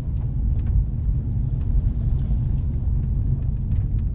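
Steady low road and engine rumble of a car heard from inside the cabin while driving, with a few faint ticks.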